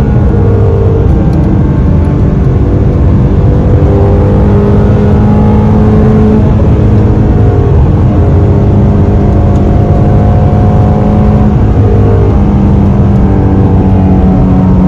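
2020 Shelby GT350's 5.2-litre flat-plane-crank V8 running steadily at cruise, its pitch shifting a little a few times.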